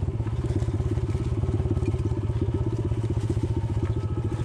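Diesel engine of a compact earthmoving machine running steadily, with a fast, even chugging pulse.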